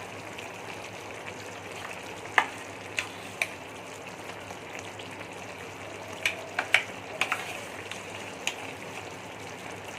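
Chicken in tomato and ghee gravy sizzling steadily in the pan, with a spoon clinking sharply several times in two clusters as milk cream is spooned in.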